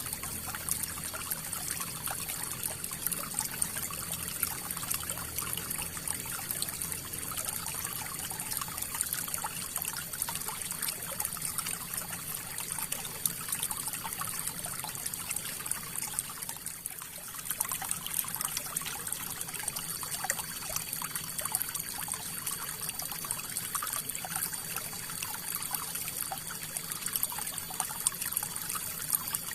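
River water running and trickling over rocks, a steady splashing flow with many small splashes and one brief easing about halfway through.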